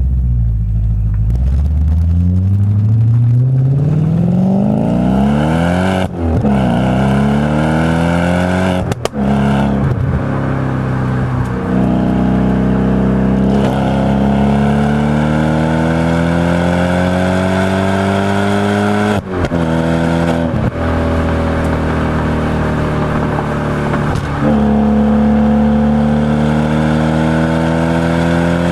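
Audi B7 S4's 4.2-litre V8 running through a Stasis aftermarket exhaust, under hard acceleration through the gears. The engine note climbs steadily in each gear and drops back briefly at each of several upshifts.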